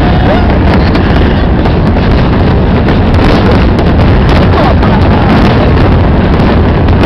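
Steady rumble and crackle of a fireworks finale, many shell bursts running together, with wind noise on the microphone and faint crowd voices.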